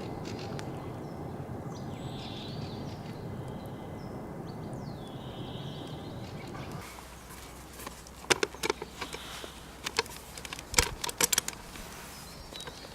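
Outdoor rural ambience with a steady low rushing noise and a bird calling twice. Then, after a change of scene, the noise falls away and a run of sharp clicks and knocks follows, the loudest about three-quarters of the way in.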